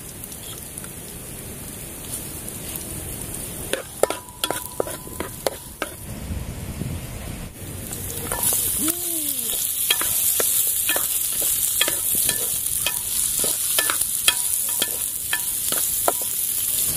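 Onion and garlic frying in a blackened pan over a wood fire, with a wooden spatula knocking and scraping against the pan. About eight seconds in, raw chicken feet go into the hot pan and the sizzle turns much louder and hissier as they are stirred.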